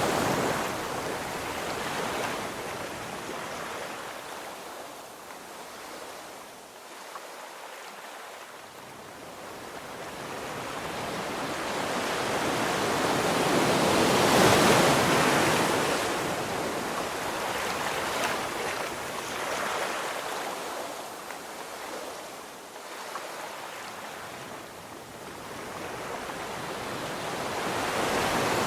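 Ocean surf washing onto a beach: the rush of breaking waves swells and fades, with one wave breaking loudest about halfway through and the next building near the end.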